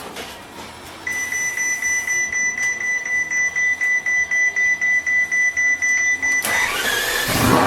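Ferrari LaFerrari's V12 being cold-started: after a second of quiet, a steady high-pitched whine with a rhythmic pulse of about three to four a second runs for several seconds as it turns over, then the engine fires near the end with a loud surge.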